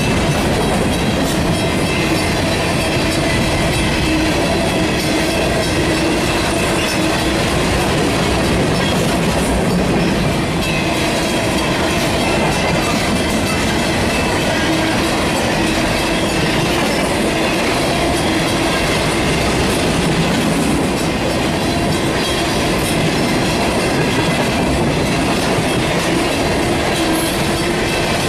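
Freight train rolling past steadily, its steel wheels clattering over the rail joints, with a faint steady whine above the rumble.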